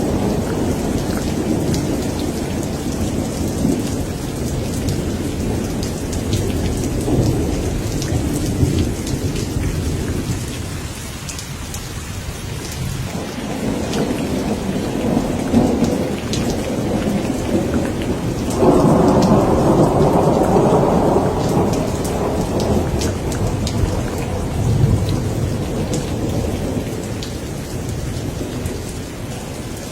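Steady rain pattering, with thunder rumbling low and swelling several times; the loudest rumble comes about two-thirds of the way through and lasts a few seconds.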